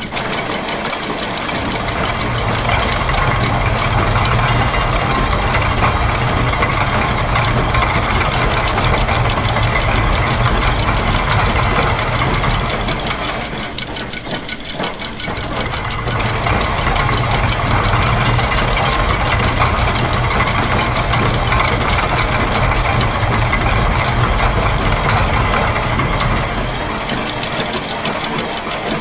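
Layered loops of factory machine sounds, gears and ratchet-like mechanisms clattering in a dense, continuous rhythmic mix over a low mechanical rumble. The low rumble drops away briefly about halfway through, then returns.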